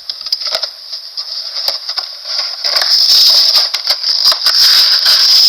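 Crinkling and rattling of a toy plane's plastic packaging as it is handled, with many small clicks; it grows louder about halfway through.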